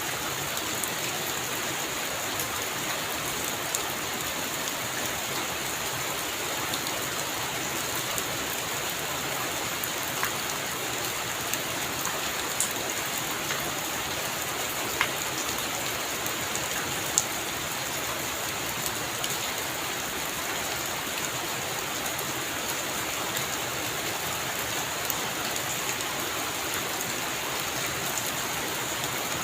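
Heavy rain falling steadily on a roof, with a few louder single drops striking now and then.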